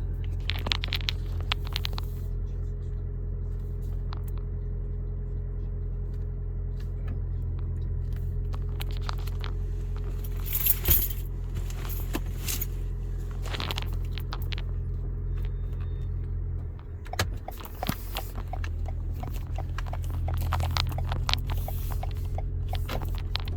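Steady low rumble of a car, heard from inside the cabin, with scattered light clicks and rattles over it. The rumble dips briefly a few seconds before the end.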